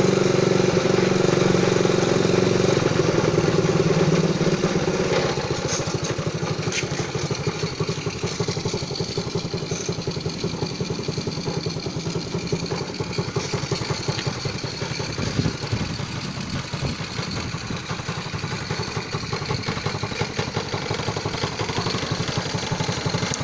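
Zongshen ZS152FMH 108 cc four-stroke single-cylinder minibike engine running, louder for about the first five seconds, then settling to a steady idle.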